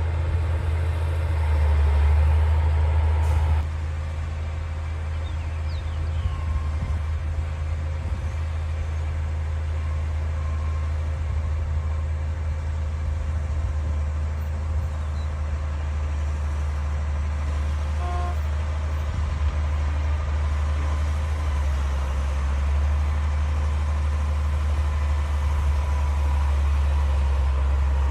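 D60 crawler bulldozer's diesel engine running steadily under work, a deep continuous hum that gets quieter about three and a half seconds in.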